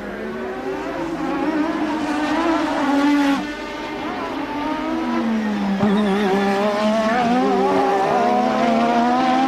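A 1988 Formula One car's engine at full racing revs. Its pitch climbs, cuts back sharply about three seconds in, dips further, then climbs steadily again through the second half as the car accelerates.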